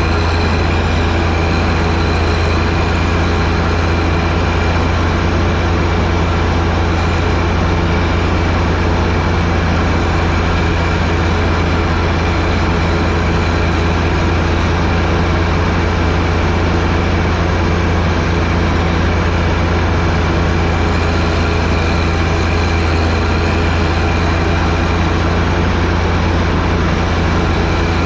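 John Deere 1025R tractor's three-cylinder diesel engine running steadily, a constant low drone with no change in pitch, while it works the front snowblower.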